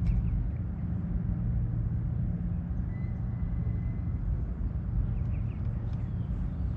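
Steady low drone of a boat engine on the water, with a faint, thin high whistle for about a second around three seconds in.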